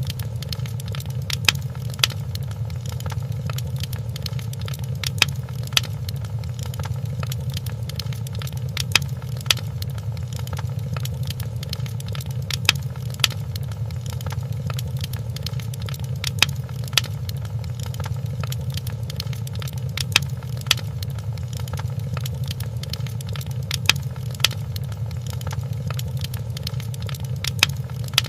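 Wood fire crackling in a fireplace: a steady low rumble with frequent sharp pops and snaps at irregular moments, a louder one every second or two.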